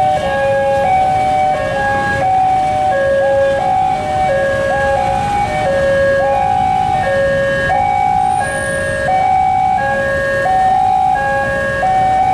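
Railway level-crossing warning alarm sounding continuously, a two-tone electronic chime steadily alternating between a higher and a lower note, which signals that a train is approaching. Underneath it, the low, steady rumble of motorcycles and cars idling at the crossing.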